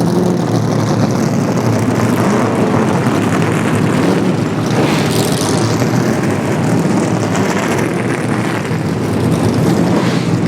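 NASCAR Nationwide stock cars' V8 engines running on the track, a steady loud drone, with one car swelling louder as it goes by about five seconds in.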